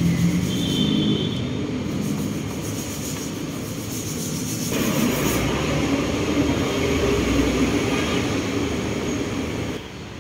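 Steady low vehicle rumble, changing abruptly about five seconds in and again near the end.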